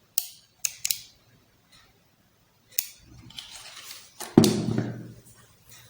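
Handling noise from a DSLR camera body: a few sharp clicks in the first second and another near three seconds, then rustling and a heavier knock about four and a half seconds in.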